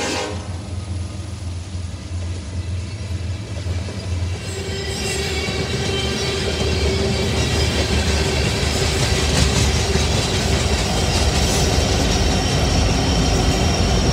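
Freight train passing close by: covered hopper cars rumbling and clattering over the rails. A steady whine joins about four seconds in, and the sound builds toward the end as mid-train locomotives draw level.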